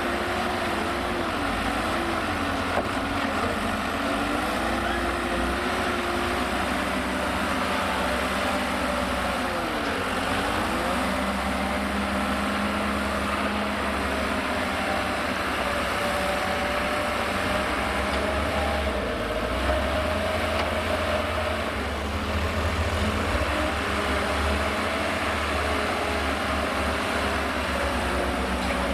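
Heavy diesel engines of a Liebherr L534 wheel loader and a Scania P400 tipper truck running during loading. The engine note rises and falls as the loader works, over a steady low rumble.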